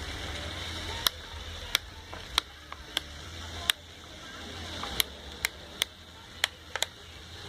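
About a dozen short, sharp clicks at irregular intervals over a low steady hum.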